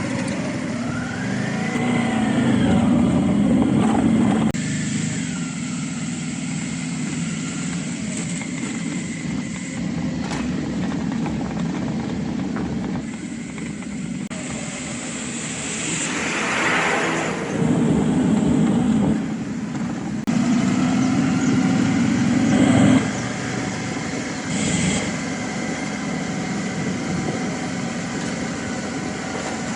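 Suzuki V-Strom 650's V-twin engine running while riding through town traffic, with road and traffic noise around it. The sound changes abruptly a few times where riding shots are cut together.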